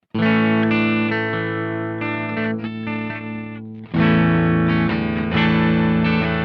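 Electric guitar played through a Witchcraft Velouria FX distortion/preamp pedal: a chord strummed and left ringing with some picked notes over it, then a second chord struck about four seconds in and ringing on.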